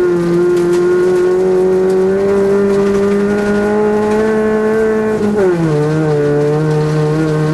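Rally car engine heard from inside the cabin, its revs climbing slowly for about five seconds, then dropping quickly and holding steady at a lower pitch.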